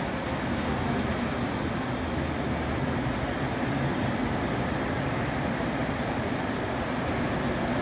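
Steady low rumble of model trains running on a layout, mixed with the background noise of the exhibit hall.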